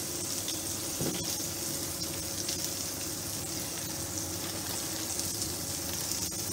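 Pointed gourd (potol) pieces frying in oil in a pan, a steady sizzle.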